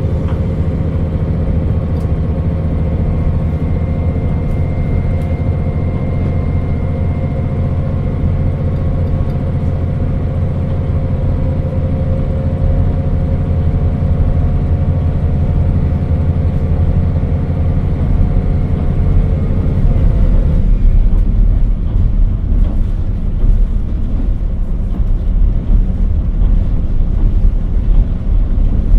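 KiHa 40 diesel railcar under way, heard from inside: its diesel engine runs with a steady tone over the low rumble of the wheels. About 20 seconds in, the engine tone drops away and the low rumble of wheels on rail grows louder.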